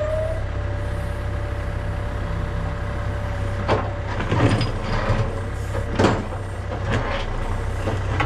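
Backhoe loader's diesel engine running steadily, with several sharp metallic clanks from about three and a half seconds in.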